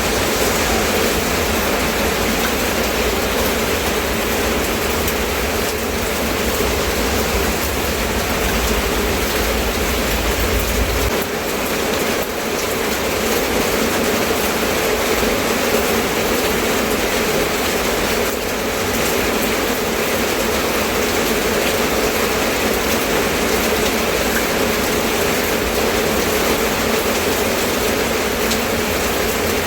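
Steady rainfall, an even constant hiss. A low rumble underneath cuts off about a third of the way through.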